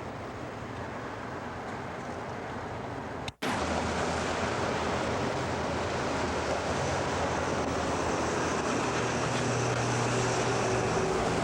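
Steady rush of road traffic with a low engine hum. It cuts out abruptly about three seconds in and returns louder.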